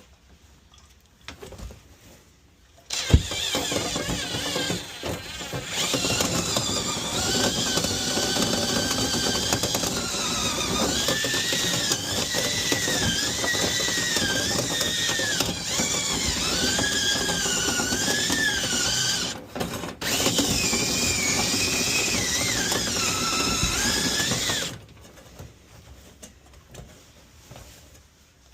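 Power drill running a rotary dryer-vent cleaning brush, starting about three seconds in and stopping near the end. Its pitch wavers up and down as the load on the brush changes, with a short break in the middle.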